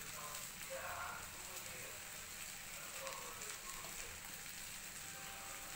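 Faint, steady sizzle of bread cubes and potatoes frying in oil in a kadai over a gas flame.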